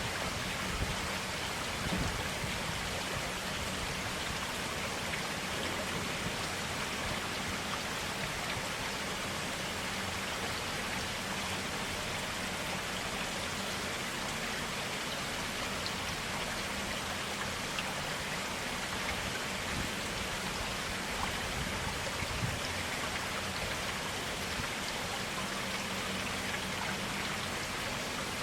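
Stream water running steadily, an even rush of flowing water.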